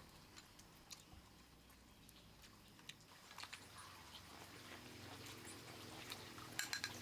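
Faint scattered clicks and taps, with a short quick cluster of them near the end.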